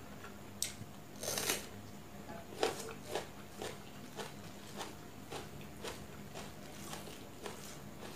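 Close-miked eating sounds from a mouthful of rice and chicken-egg curry, with a louder crunchy burst about a second in. After that come soft wet chewing clicks, about two a second.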